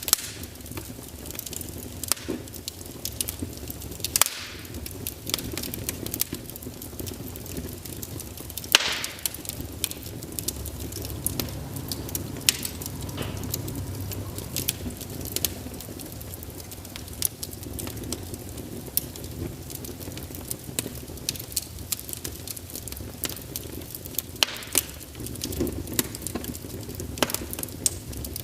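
Wood fire burning in a fireplace: a steady low rumble of the flames with irregular crackles and sharp pops from the burning logs, and a few brief hissing spurts.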